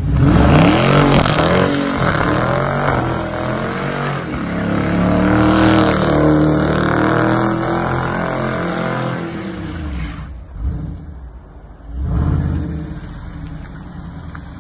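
A car engine revving, its pitch rising and falling, then easing off about ten seconds in, with a shorter rev about two seconds later.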